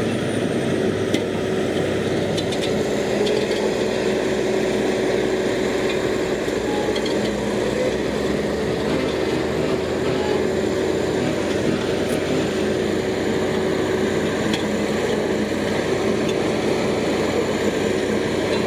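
A heavy construction machine's diesel engine running steadily, with a steady whine over the low engine sound.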